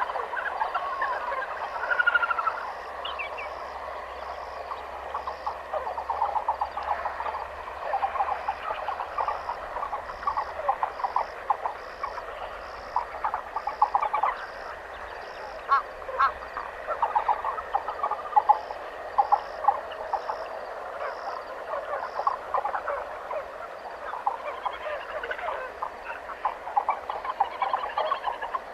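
Night chorus of many frogs calling over one another in quick pulsed trills, with a higher chirp repeating steadily about twice a second.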